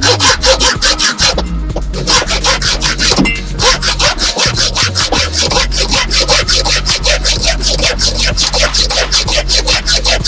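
Hand saw cutting in quick, even back-and-forth strokes, about six a second, with brief pauses about two and three and a half seconds in.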